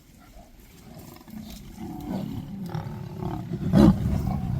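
Lions growling low and rough at a buffalo kill, building to a loud burst near the end.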